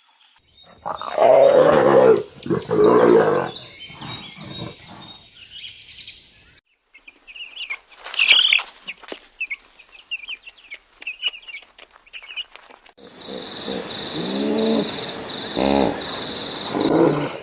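A run of animal calls: chickens clucking and calling loudly for the first few seconds, then small birds chirping sparsely, then a different animal's rising calls over a steady hiss near the end.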